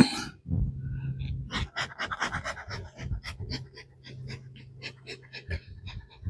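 Honeybees buzzing at an open hive, a steady low hum, under rapid clicking and rustling as the hive frames are handled. A sharp knock comes right at the start.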